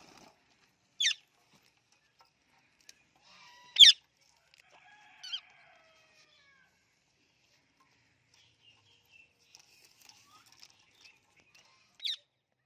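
Parrots squawking: four short, loud calls, the loudest about four seconds in, with faint soft chatter between them near the end.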